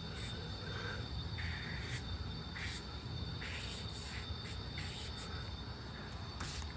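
Short, irregular scratchy strokes of a drawing tool on paper while sketching, about one stroke a second.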